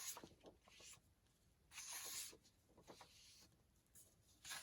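Faint rustling of printed paper sheets being handled and shuffled, with a longer swish of paper sliding about two seconds in.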